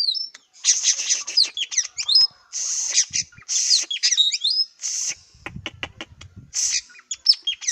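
A bird the uploader calls a burung tanau calling in a varied run: short harsh rasping calls repeated about once a second, interleaved with quick whistled rising and falling notes. A run of sharp clicks comes about two-thirds of the way in.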